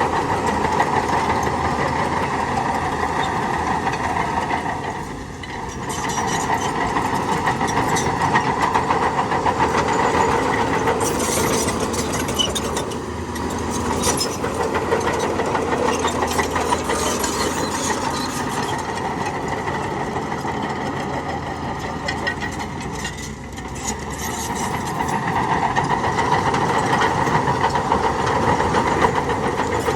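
Diesel engines of heavy earthmoving machinery running continuously, the noise easing off briefly three times and building back up.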